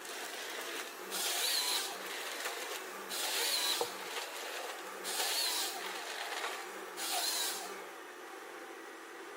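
Machine noise: a steady hum with a harsh, saw-like burst repeating four times, about every two seconds.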